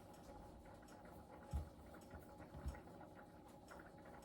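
Quiet handling of dumpling dough on the table: two soft low thumps about a second apart, with faint light ticks over a steady faint hum.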